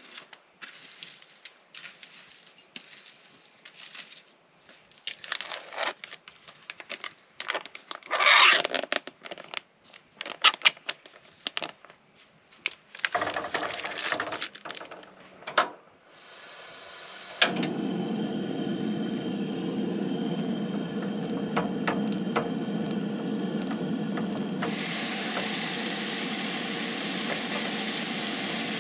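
Irregular crackling, scraping and tearing sounds, loudest about eight seconds in, then just past halfway a sudden steady hiss sets in as ground beef begins frying in a skillet on a propane camp stove, turning brighter and more sizzling near the end.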